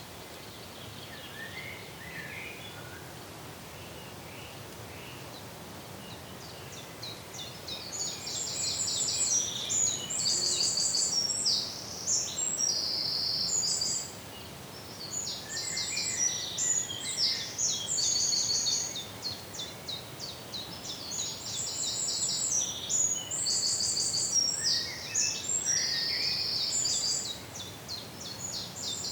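Birds calling in rapid, high-pitched chirping trills that come in bursts with short pauses, starting about a quarter of the way in, over a steady outdoor background hiss.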